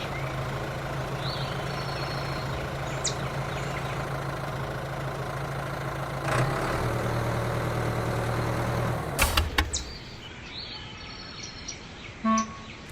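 A motor running with a steady low hum that drops in pitch about six and a half seconds in, then stops with a few knocks about nine seconds in. Two short chirps sound over it near the start.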